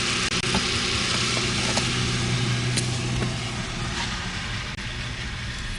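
A motor vehicle's engine running steadily, its low hum fading away about three seconds in, under a steady hiss of wind.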